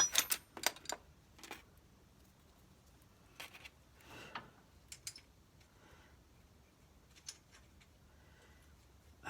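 Light metallic clicks and clinks of tools and parts being handled while taking apart a garden tractor: a quick cluster at the start, then single taps every second or two.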